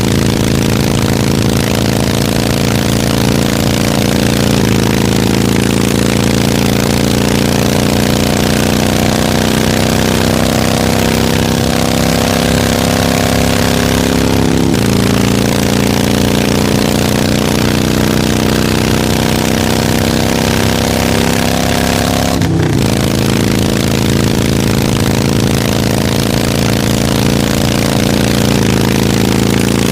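Harley-Davidson V-twin motorcycle engine running steadily. Its note shifts abruptly a few times, with a short break about two-thirds of the way through.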